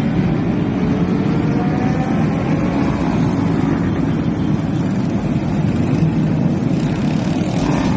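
Steady rumble of road traffic on a highway, with a faint engine rising in pitch around the middle and a brief swell near the end.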